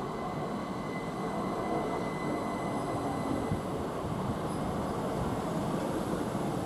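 A train running along the track with a steady rumble of wheels on rails. A faint thin high squeal from the wheels sounds over the first few seconds.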